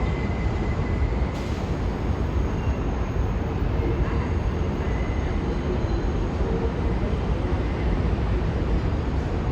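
New York City subway train running through an elevated station: a steady, even noise with heavy low end and a faint high tone coming and going.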